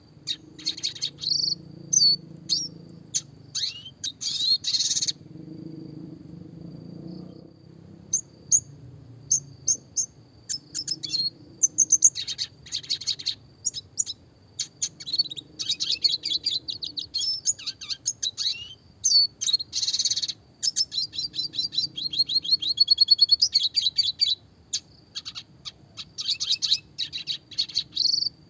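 Red siskin (Spinus cucullatus) singing a long, clear song of high chirps and fast trills, with a short pause about six seconds in.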